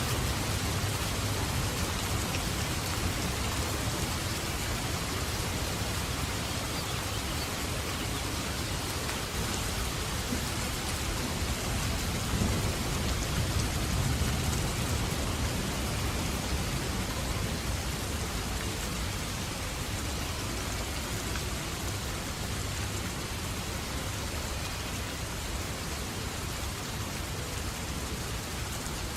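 Steady heavy rain falling, with a low rumble of distant thunder underneath through the first half that dies away, leaving the rain alone and slightly quieter toward the end.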